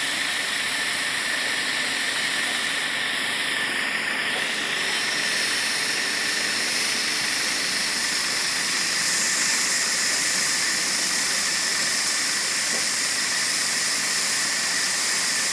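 Steady, even hiss of running machinery, with no distinct beats or clear tones.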